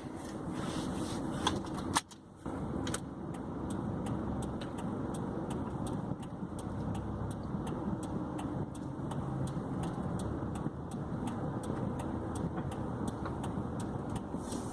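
Car engine running steadily, with an even clicking about three times a second and a single sharp click about two seconds in.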